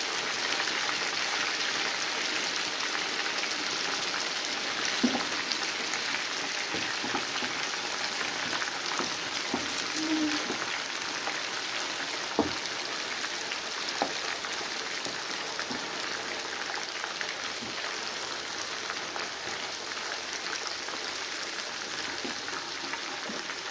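Chicken pieces frying in hot oil in a pan over a high gas flame: a steady sizzle, with a few sharp knocks of a wooden spoon against the pan as the pieces are turned.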